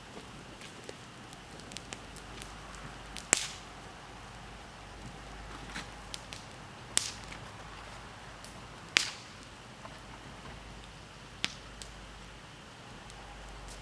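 Wood bonfire crackling over a steady low hiss, with small ticks throughout and four sharp, loud pops from the burning wood.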